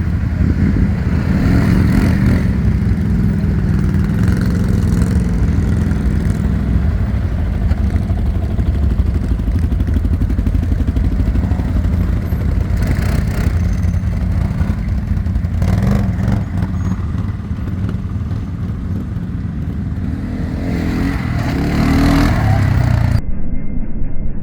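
ATV engine running steadily as it is ridden, swelling with the throttle a couple of times, with a few sharp knocks and clatter.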